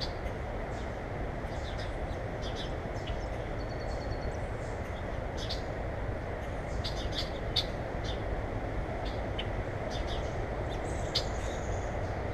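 Small birds chirping: many short, high chirps, scattered and overlapping, over a steady low background rumble.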